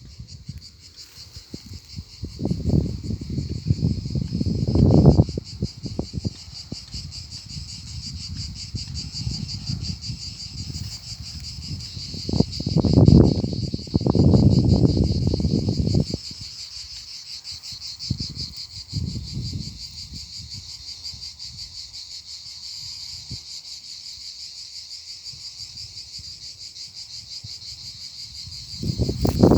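A steady, high, rapidly pulsing trill of insects calling. Loud low rumbles come and go, about two to five seconds in and again around twelve to sixteen seconds in.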